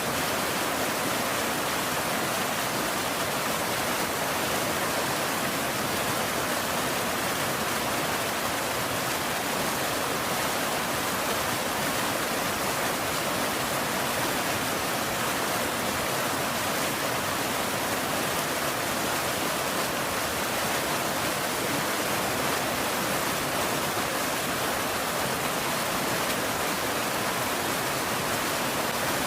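Rain falling steadily, an even hiss with no single drops or thunder standing out.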